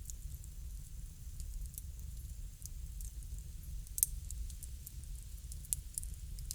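Bonfire crackling: scattered sharp pops and snaps of burning wood, the loudest about four seconds in, over a steady low rumble of the fire.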